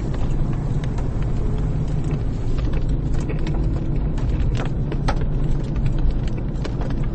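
Car driving, heard from inside the cabin: a steady low rumble of engine and road noise, with scattered light clicks and knocks.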